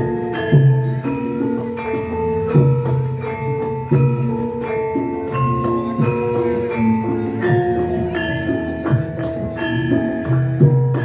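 Javanese gamelan ensemble playing a gending: bronze metallophones and gongs struck in a steady pulse, their notes ringing over one another.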